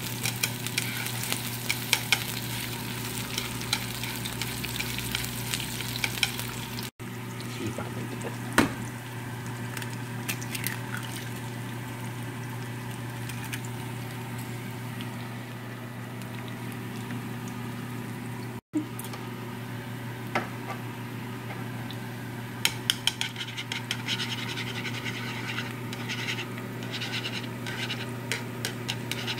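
Sliced onions and then an egg sizzling in a nonstick frying pan, stirred with wooden chopsticks that scrape and click against the pan. A steady low hum runs underneath.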